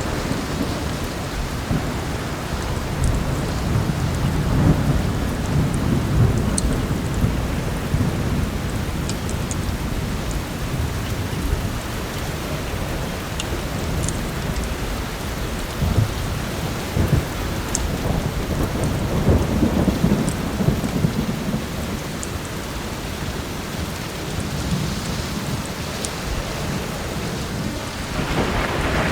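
Steady heavy rain with low rolls of thunder that swell and fade several times, and a few sparse crackles from a wood fire.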